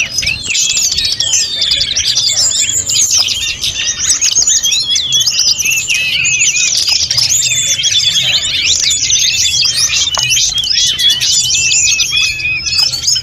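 Sulingan gunung (tledekan gunung) songbird singing without pause: a dense, fast run of high whistled sweeps and twittering phrases. It is a full-fill (full isian) song packed with varied phrases.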